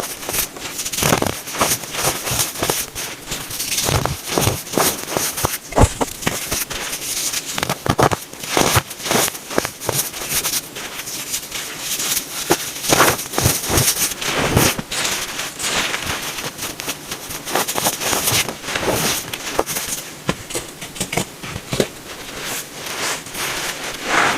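Packed baking soda being crushed and squeezed by hand: a steady run of dense, irregular crunches and squeaky crackles.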